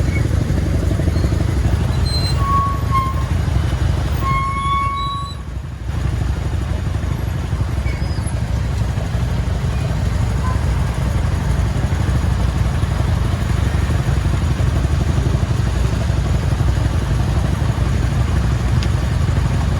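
Motorcycle riding on a highway: a steady low rumble of engine and wind on the microphone. Two brief high tones sound about three and five seconds in, and the rumble drops for a moment just before six seconds.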